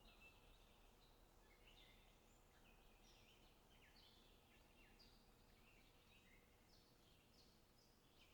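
Faint birdsong: several small birds chirping in quick, overlapping short calls, over a low steady background hiss.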